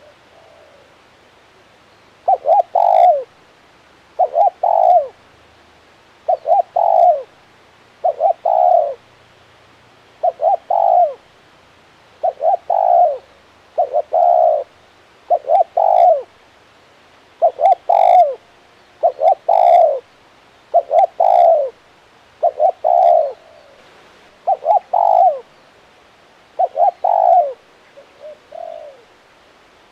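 Spotted dove cooing over and over, a short phrase of a few quick coo notes about every two seconds, starting about two seconds in. Near the end one phrase is softer and broken.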